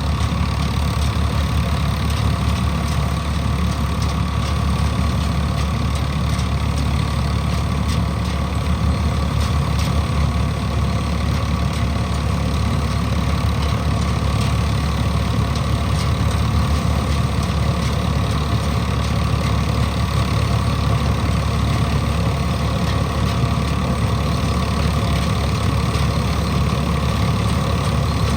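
Swaraj combine harvester's diesel engine running steadily at work, an even drone with a constant low hum.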